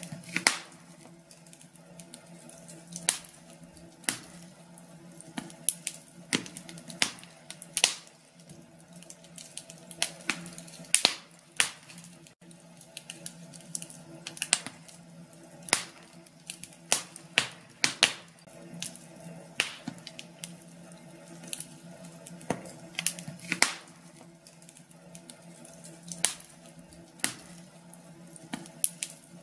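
Wood fire crackling in a fireplace: irregular sharp pops and snaps, a couple each second, some much louder than others, over a faint steady low hum.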